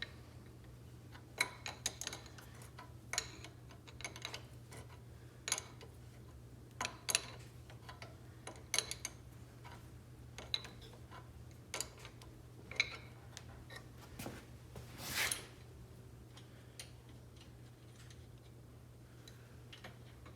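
Scattered light clicks and metallic clinks of parts and tools being handled at irregular intervals, with a longer scraping rustle about fifteen seconds in, over a steady low hum.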